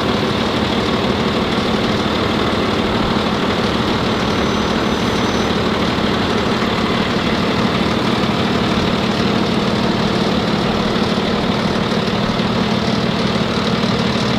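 A truck engine idling steadily at an even level.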